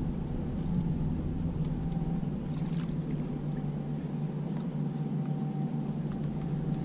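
Boat motor running steadily with a low, even hum while the boat trolls, with a few faint ticks partway through.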